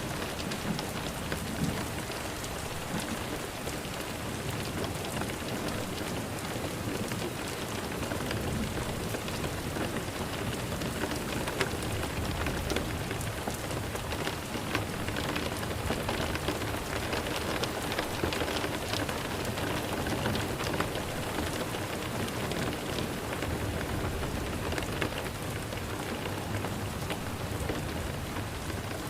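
Steady rain falling: an even hiss of rain with many small drop ticks.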